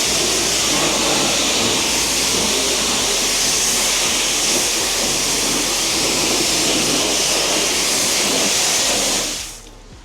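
Water spraying hard from a wash nozzle in a steady hiss, cutting off suddenly near the end.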